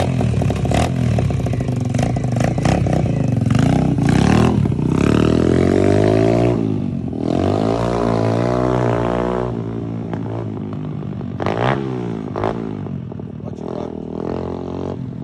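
150cc Chinese dirt bike's single-cylinder four-stroke engine, fitted with a 24mm Nibbi racing carburetor and a performance exhaust, revving hard as the bike pulls away. The pitch climbs and drops several times as it goes through the gears, and the engine grows quieter over the last few seconds as the bike rides off.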